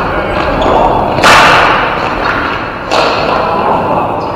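Ball hockey play in an arena: two loud sharp knocks, about a second in and again about three seconds in, each echoing around the hall.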